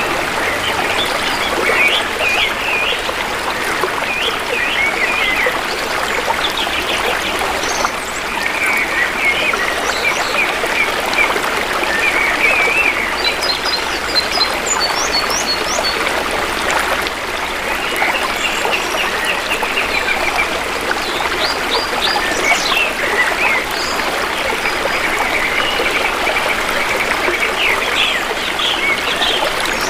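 Shallow river water flowing and trickling steadily, with forest birds chirping and trilling throughout.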